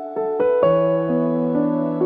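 Soft electric piano music, a few notes struck one after another and left to ring over a held low note.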